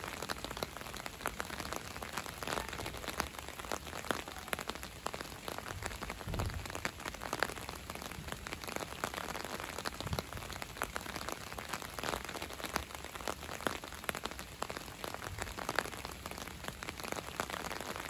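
Steady rain falling, with many single drops ticking close by on hard surfaces.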